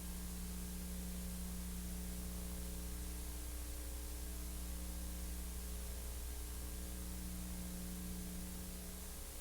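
Steady electrical mains hum with hiss and several faint steady tones, the background noise of a soundtrack with no other sound in it.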